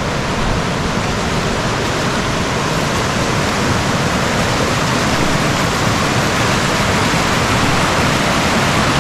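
River water pouring over a rock dam in a steady, loud rush of whitewater.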